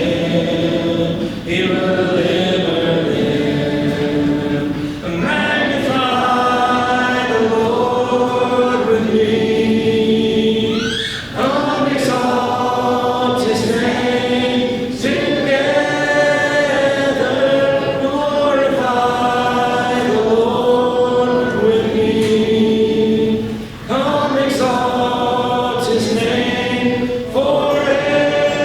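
Congregation singing a hymn a cappella in several voices, holding each note for a second or two with short breaks between phrases.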